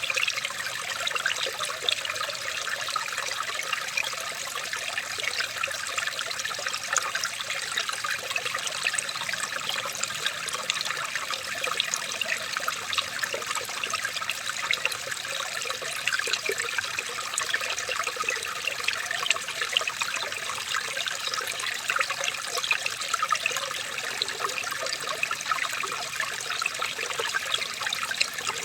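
Running water trickling and splashing steadily, with a constant bright, fizzing texture.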